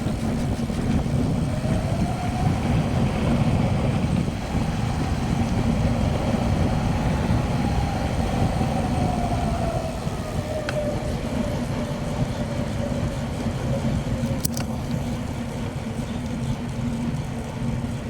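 Wind buffeting the microphone and bicycle tyres running on the road while riding, with a faint hum that rises and then falls in pitch over several seconds. A couple of short clicks come in the second half.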